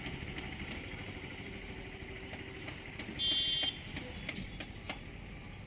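A vehicle engine running steadily, with scattered sharp knocks. About three seconds in there is a loud, high-pitched beep lasting about half a second.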